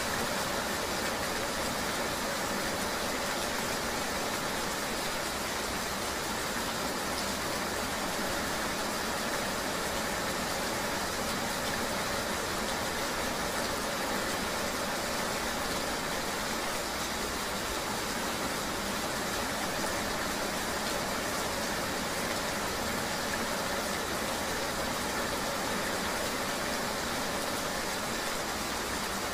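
Steady, unchanging vehicle noise: an engine running evenly under a constant hiss, as on a ride in the rain.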